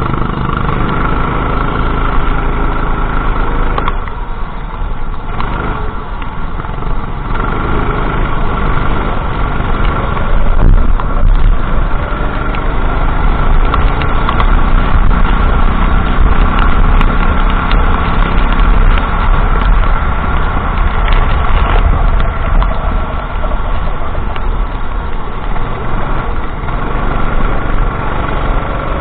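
Go-kart engine running continuously, with a short quieter stretch about four to seven seconds in.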